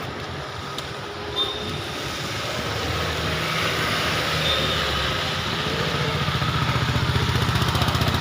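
Motor vehicle engine running and growing louder near the end, with a rapid pulsing beat, over a steady rushing noise.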